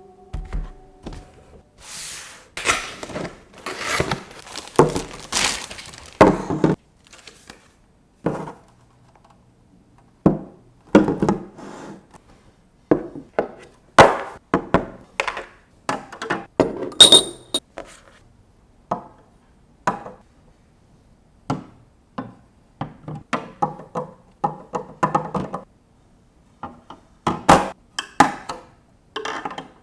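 Objects being handled and set down on a hard surface: an irregular run of knocks and thunks, with one bright, ringing clink about 17 seconds in.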